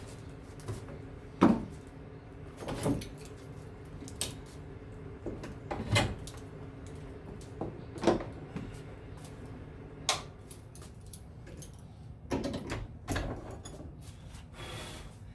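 Irregular knocks and clanks of metal parts being handled, about ten over several seconds, over a steady low hum.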